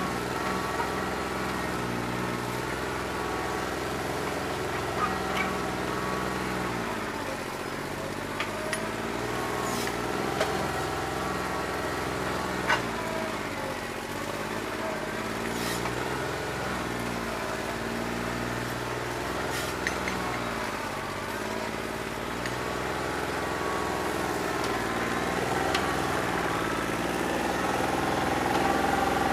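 New Holland 1320 compact tractor's three-cylinder diesel engine running rough on a bad injector, firing on only about two and a half cylinders. Its speed wavers slowly up and down through the middle.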